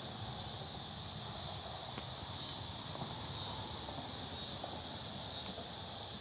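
Steady chorus of insects, a continuous high-pitched buzz, with a few faint ticks and snaps.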